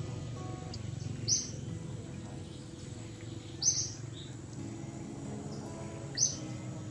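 A bird's short, high call, repeated three times about two and a half seconds apart, over a steady low background noise.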